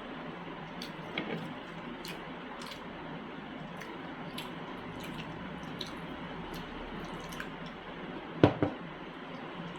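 Wet squishing and smacking eating sounds from a person eating saucy curry with their hands, with small clicks scattered throughout. Near the end come two sharp knocks in quick succession, the loudest sounds here.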